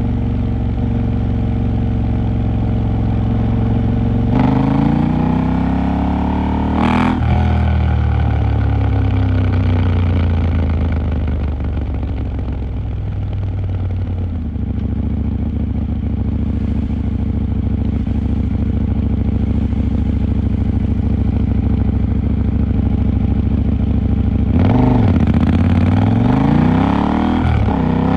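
KTM 890 Duke R's parallel-twin engine on the road: it runs steadily, then revs up about four seconds in, with a brief sharp crack near seven seconds. The revs fall away and settle into a steady run. Near the end the engine revs up and down again.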